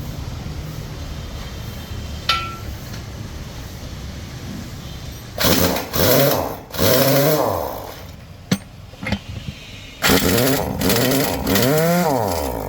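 Pneumatic impact wrench run in two loud bursts, about five and ten seconds in, its pitch rising and then falling as it spins up and down on the truck's wheel nuts, over a steady low rumble.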